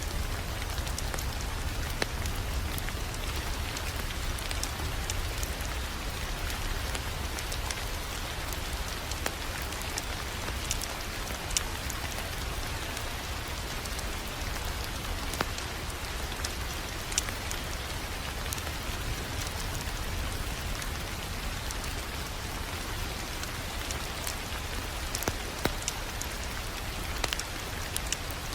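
Wood fire crackling in a fireplace: a steady hiss over a low rumble, with scattered sharp pops and snaps.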